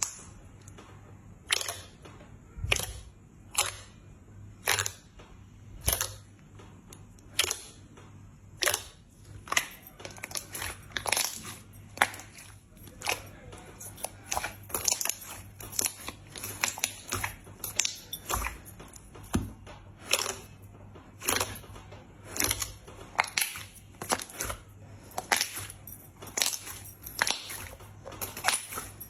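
Crunchy slime being worked by hand, giving a series of sharp crunching crackles. They come about once a second at first, then quicker and more densely from about ten seconds in.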